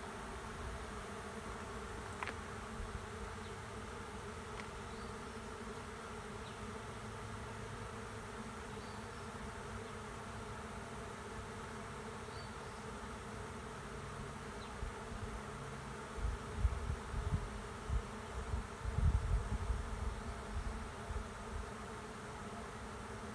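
A honey bee swarm buzzing, the steady dense hum of many bees flying around the hive. From about 16 to 21 seconds, irregular low rumbling thumps rise over the hum.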